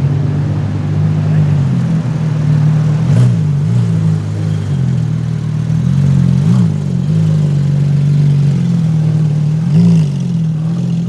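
A car engine running steadily at low revs, with brief rises in pitch from light throttle blips about three, six and a half, and ten seconds in.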